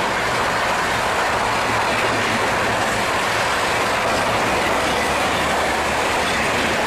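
Mumbai Rajdhani Express passenger train passing at high speed, a loud, steady rush of wheels on the rails.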